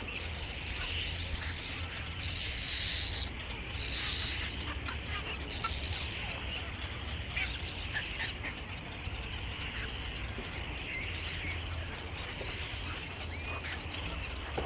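Many birds chirping and calling at once, a dense chatter of short high calls, over a steady low rumble.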